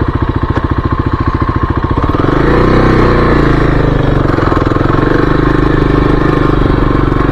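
Kawasaki KLX-300's single-cylinder four-stroke engine idling with an even beat, then revving up about two seconds in and running steadily at higher revs as the motorcycle pulls away.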